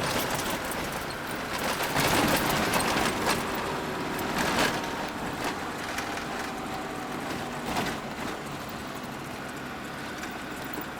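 Old Land Rover driving at about 40 km/h, a steady mix of engine and road noise with faint steady whining tones and a few knocks and rattles.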